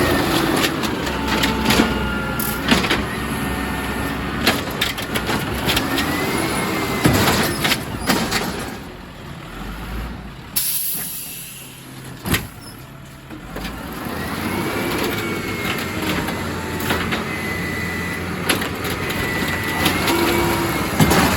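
Garbage truck working its lift arm: a whine whose pitch rises and falls as the engine and hydraulics cycle, with knocks and clunks throughout. About ten seconds in there is a short sharp air hiss from the air brakes.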